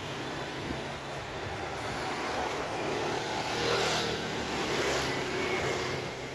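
A motor vehicle passes by on the street, its engine and tyre noise rising to a peak about four seconds in and then fading away.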